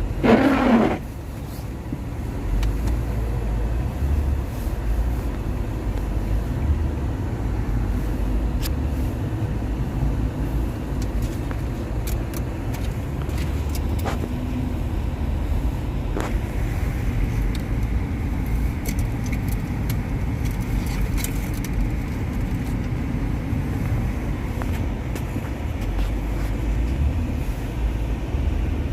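A car's steady low engine and road rumble while driving on snowy streets. A short louder sound comes in the first second.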